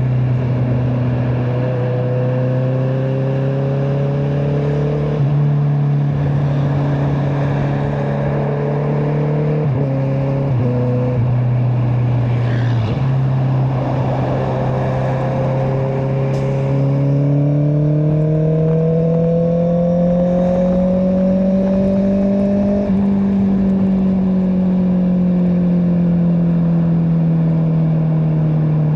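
Honda CBR650R inline-four engine through an Akrapovic exhaust, under way on the road. The engine note holds steady with a few brief dips in the first half, then rises steadily for several seconds past the middle and slowly falls back.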